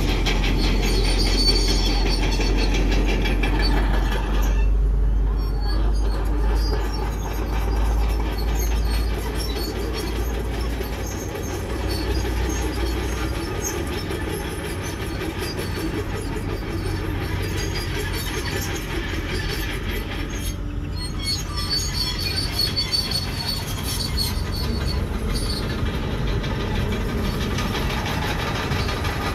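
Bulldozer at work: diesel engine running while the steel tracks squeal and clank. The engine's low rumble eases about halfway through.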